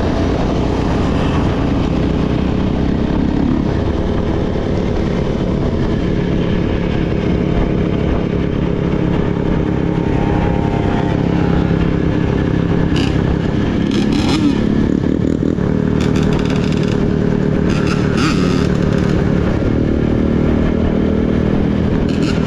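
Dirt bike engine running while riding, its pitch rising and falling with the throttle. A few short clattering noises come partway through.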